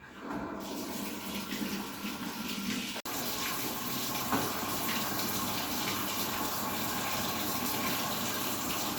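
Water running in a steady rushing stream, cut off abruptly for a moment about three seconds in.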